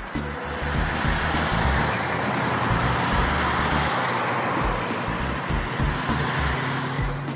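Classic car engines running, with a steady wash of traffic noise.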